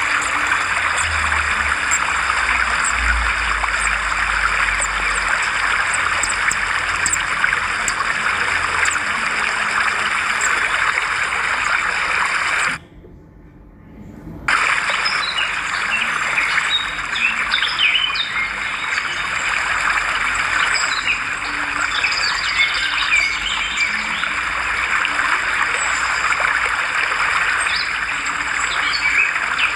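A dense mass of swiftlets twittering, an even chatter of many high chirps. About 13 s in it drops out for a second or two, then returns with the single chirps standing out more.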